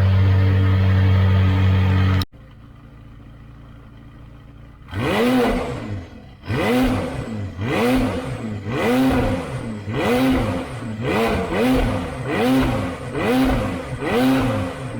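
McLaren 570S twin-turbo V8 through a Tneer full exhaust with catless downpipes, running at a loud steady idle that cuts off abruptly about two seconds in to a much quieter idle. From about five seconds in comes a quick series of about a dozen throttle blips, each rev rising and falling sharply, less than a second apart.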